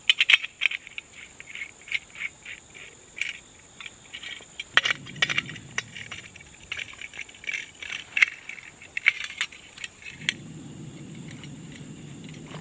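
Metal camp cookware and gear clinking and rattling as they are handled, a quick run of light jingling clicks. A steady low hum comes in briefly about five seconds in and again from about ten seconds on.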